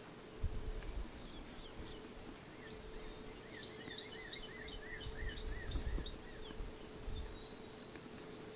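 Faint outdoor ambience: a songbird sings a quick run of about a dozen repeated chirping notes in the middle, over a steady faint hum and irregular low rumbling.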